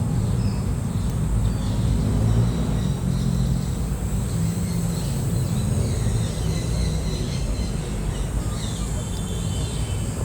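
Outdoor ambience: a steady low rumble with faint, scattered high chirps and a thin, steady high-pitched whine.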